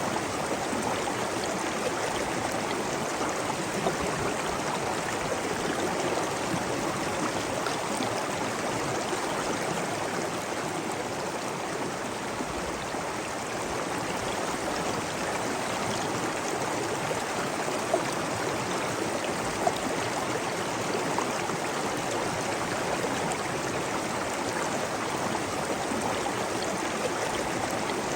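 Steady rushing and trickling of flowing water, like a stream or small waterfall, with a few faint drip-like ticks.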